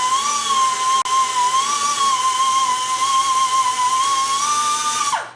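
Small pneumatic right-angle drill running at high speed with a steady whine that wavers slightly in pitch as it grinds on a broken, rusted bolt stub to flatten it. Near the end the trigger is released and the whine falls away as the tool spins down.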